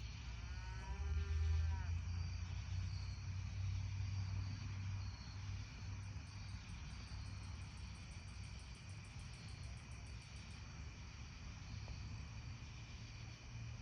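A cow moos once, a single long call near the start, over a steady chorus of crickets and other insects. From about six seconds in, a fast-pulsing high insect trill joins for a few seconds, with a low steady rumble underneath.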